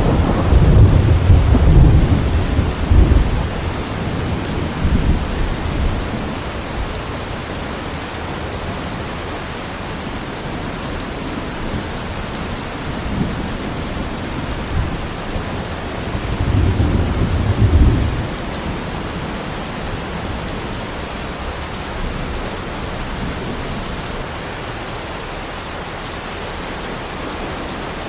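Steady heavy rain with thunder rumbling: a loud rumble in the first few seconds and another about two-thirds of the way in, over the constant hiss of rainfall.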